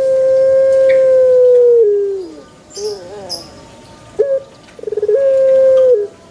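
Puter pelung dove cooing: a long, drawn-out coo held steady for about two seconds that sags in pitch at its end, then a few shorter wavering coos, a quick stuttering run, and a second long held coo.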